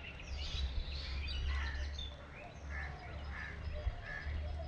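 Birds chirping, with a few short, similar calls repeating in the second half, over a steady low rumble.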